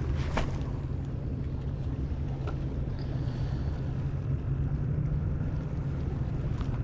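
Steady low hum and wind noise aboard a small fishing skiff, with a couple of faint clicks.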